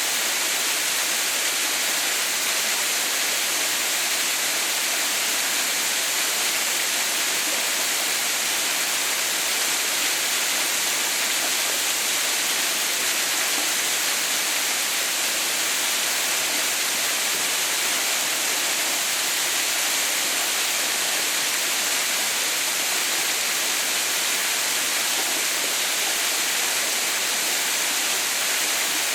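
Water of a small mountain waterfall, Mother's White Waterfall, falling and splashing onto rock in a steady, even rush, with its strongest part a bright hiss.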